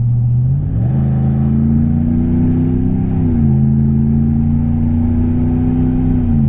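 2016 Ram 1500's Hemi V8 engine pulling under throttle: the engine note rises about a second in, drops sharply about three seconds in at an upshift, then holds and falls away near the end as the throttle is lifted.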